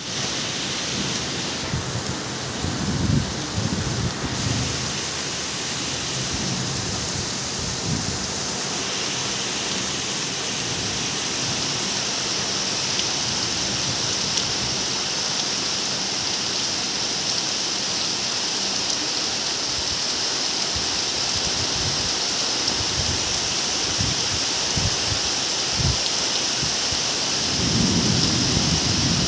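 Steady rain falling, an even hiss throughout, with short low rumbles a few seconds in and again near the end.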